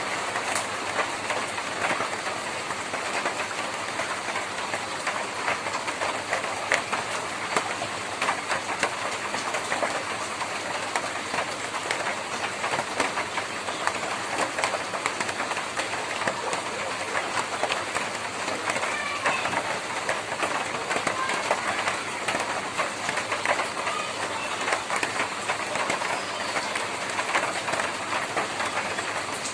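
Rain falling steadily on a tin roof: a dense, even stream of small, sharp drop taps on the metal.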